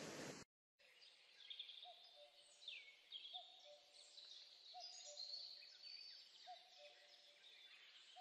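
Faint birdsong: many quick descending chirps, with a lower short call repeating about every second and a half. A steady hiss cuts off abruptly about half a second in.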